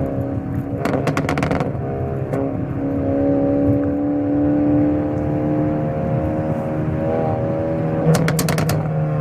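Hyundai Avante N (Elantra N) 2.0-litre turbocharged four-cylinder engine and exhaust running steadily under way, heard from the car. There are two short bursts of rapid exhaust crackles, about a second in and again near the end.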